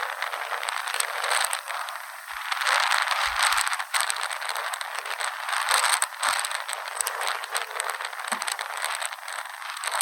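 Strong Santa Ana wind gusting: a loud rushing hiss that swells and eases every second or two, with rattling and crackling clicks running through it.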